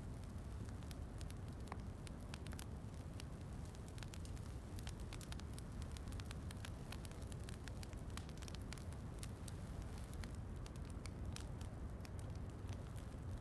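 Wood fire crackling with frequent small sharp pops over a steady low rumble.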